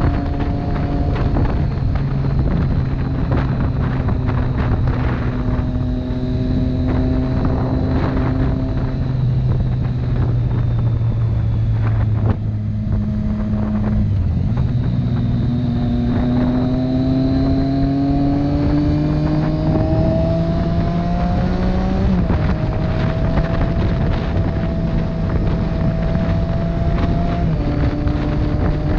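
Motorcycle engine running under way with wind rushing over the microphone. The engine note climbs and steps down abruptly several times as gears are shifted.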